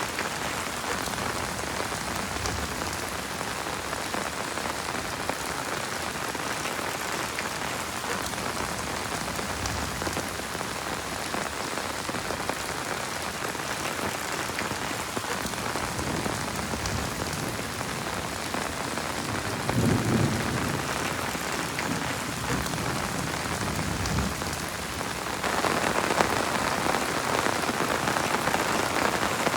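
Steady heavy rain falling, with a short low rumble about two-thirds of the way through. The rain grows louder near the end.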